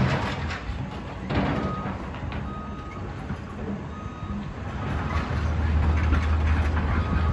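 Heavy diesel construction machine running, with a reversing alarm giving short beeps at uneven intervals. The engine rumble grows louder about five seconds in.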